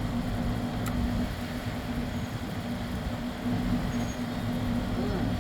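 A steady low engine-like hum with a constant pitch over outdoor background noise.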